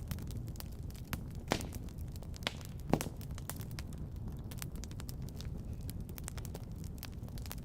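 Wood fire crackling in a fireplace: irregular snaps and pops, the sharpest three between about one and a half and three seconds in, over a steady low rumble.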